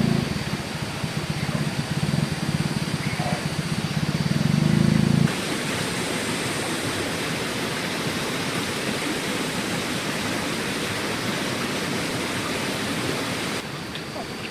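Steady rushing noise with a low rumble in the first five seconds that cuts off abruptly, then an even hiss; the sound changes suddenly again near the end.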